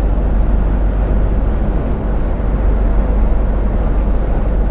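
Truck's diesel engine and tyre noise heard from inside the cab while driving: a steady low rumble.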